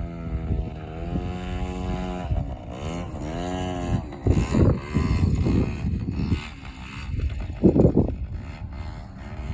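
Yamaha PW50 two-stroke single-cylinder engine revving up and down as the mini bike rides, its pitch rising and falling. In the second half, several short, louder low rushes of noise break over it.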